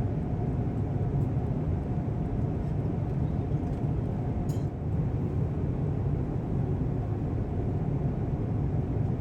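Steady low rumble of an Airbus A350-1000's cabin in cruise flight, engine and airflow noise heard from inside the cabin, with one faint click about four and a half seconds in.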